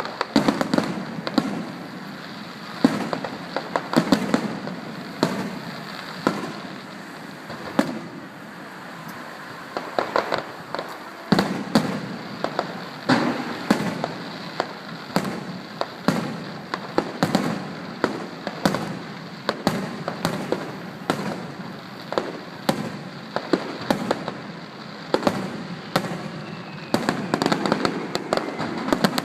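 Fireworks display: shells bursting one after another in an irregular run of sharp bangs, often in quick clusters. Heard through an iPhone's microphone.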